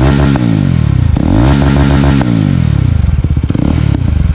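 Jawa 42 Bobber's 334 cc liquid-cooled single-cylinder engine being revved: two throttle blips, the second held for about a second, then dropping back to a lumpy, pulsing idle.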